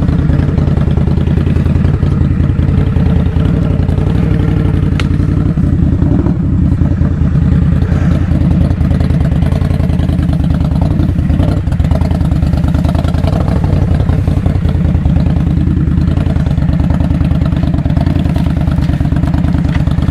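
Indian Scout Bobber Twenty's V-twin engine idling steadily, freshly started.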